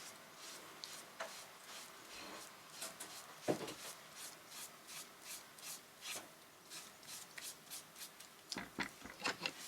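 Brush strokes spreading a generous coat of decoupage medium over paper, a rubbing swish repeated about two to three times a second, with a louder knock about three and a half seconds in and a quicker run of strokes near the end.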